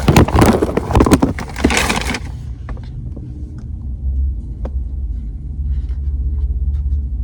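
Steady low rumble of a car cabin with the engine running. For the first two seconds or so, loud rustling and scraping of handled packaging drowns it out, and a few light clicks follow.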